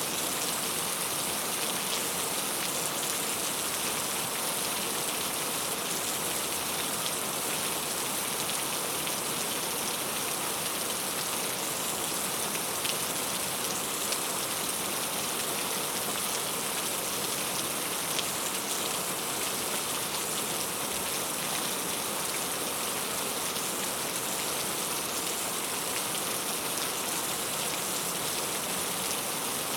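Steady rain falling on a surface, an even hiss of many small drops ticking with no letup.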